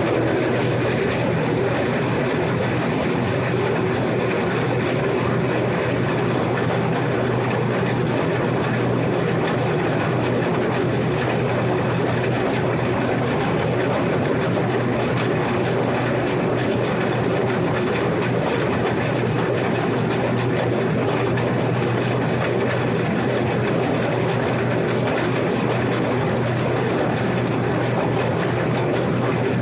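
Case IH 2388 combine running steadily under load while cutting wheat, its engine and threshing machinery making an even, unbroken drone as heard from the cab roof.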